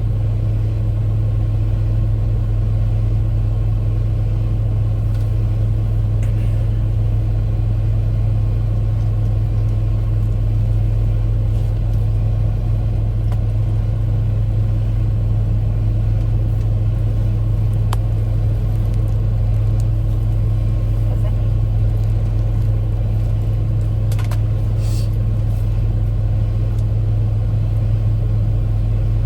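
Steady low hum of a vehicle engine running, unchanging throughout, with a few faint clicks.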